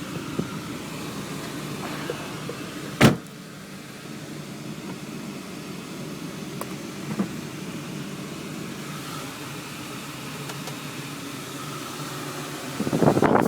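2001 Audi TT quattro's 1.8-litre five-valve turbocharged four-cylinder idling smoothly, with a single sharp click about three seconds in and a fainter click later. Near the end a loud, rough rustling noise sets in over the idle.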